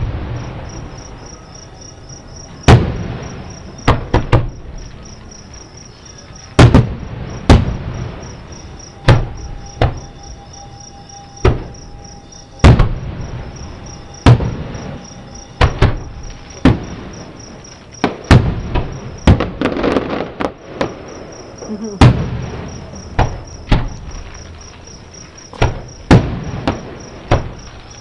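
Aerial fireworks shells bursting at irregular intervals, about twenty booms, each trailing off in a rolling echo, heard from about a mile away. Crickets chirp steadily underneath.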